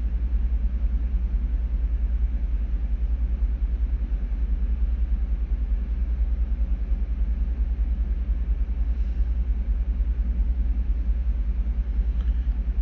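Steady low rumble of running machinery in a ship's engine room, even and unbroken, with a fast regular pulse in the deep bass.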